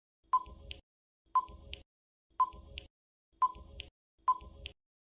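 Countdown timer sound effect: five short, sharp ticks about one a second, each with a brief ringing tone, counting down the pause before a quiz answer.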